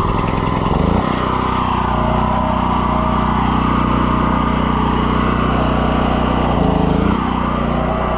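Small gasoline engine of a portable air compressor running, picking up to a steady speed about a second in, with a brief dip and recovery in speed near the end.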